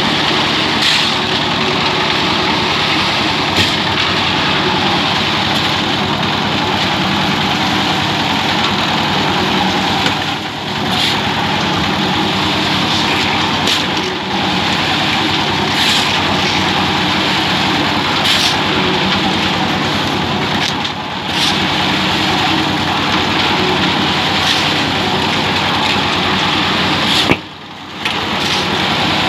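Concrete mixer machine running steadily while it churns a freshly loaded batch of cement, sand and stone chips. The sound drops out briefly about 27 seconds in.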